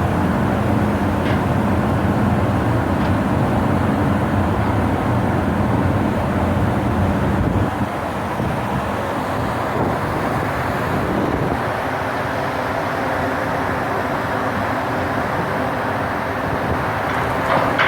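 Ship's engine and machinery running steadily under manoeuvring power, a continuous low hum with a steady drone, easing off slightly about halfway through.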